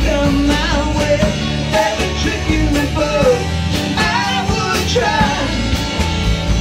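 Live rock band playing a song: a singer's voice over guitar, bass and a steady drum beat. The sung line stops about five seconds in while the band plays on.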